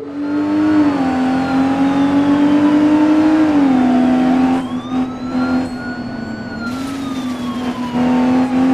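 Racing car engine running hard, its pitch dropping a few seconds in, then rising and falling again.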